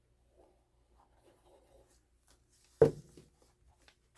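Faint rubbing and rustling of paper being handled and pressed down on a journal page, then a single sharp knock of something hitting the tabletop near the end.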